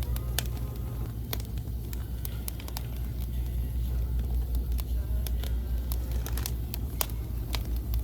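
Wood fire crackling, with irregular sharp pops and snaps from the burning logs over a steady low rumble.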